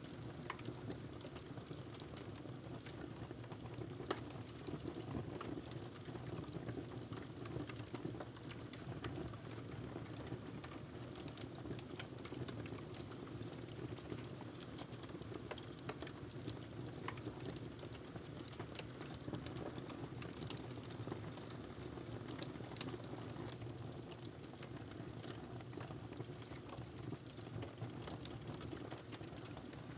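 Wood fire crackling in a fireplace: many small irregular pops and snaps over a steady low rumble, with one sharper pop about four seconds in.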